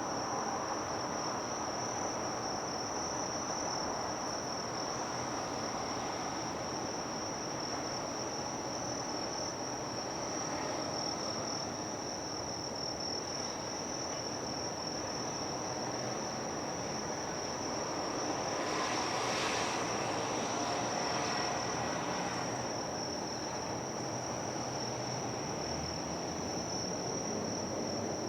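Insects chirring in a steady, high, pulsing drone over outdoor background noise. About two-thirds of the way in, a broader rushing sound swells up and then fades.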